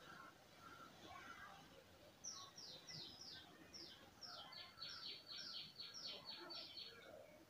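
Faint songbird chirping: a series of short downward chirps starting about two seconds in, turning into a quicker run near the end.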